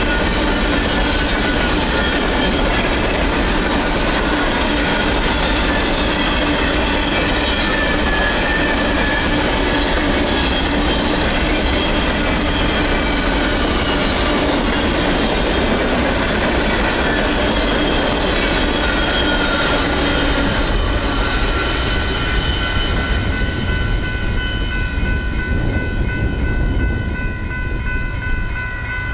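Empty coal train's hopper cars rolling through a grade crossing, wheels clattering and rumbling over the rails, with the crossing's GS Type 3 electronic bell ringing. About 21 seconds in the rail noise falls away as the last car clears, leaving the electronic bell's steady tones plainly heard.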